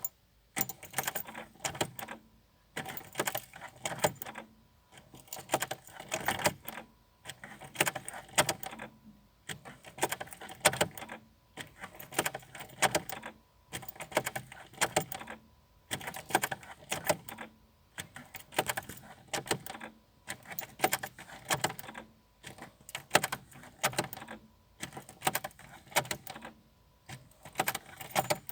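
Repeated short bursts of sharp clicking and rattling from a Renault Mégane 1 1.9 dTi that will not start, about one burst every two seconds, with no engine catching.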